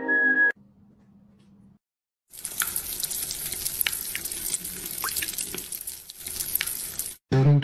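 Food frying and sizzling in a hot pan: a steady hiss with small crackles that starts about two seconds in and stops just before the end, after the end of a music cue.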